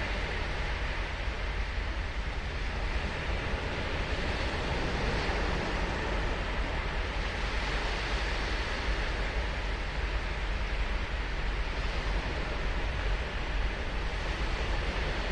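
Ocean surf breaking and washing on the beach: a continuous hiss of water that swells and eases gently every few seconds, over a low rumble.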